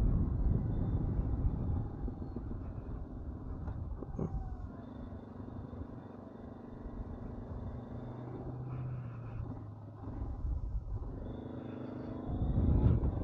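A 2022 Honda CB500X's 471 cc parallel-twin engine running while the bike is ridden, with low wind rumble on the microphone. The rumble is loudest at first, eases off about two seconds in, and builds again near the end as the engine pulls harder.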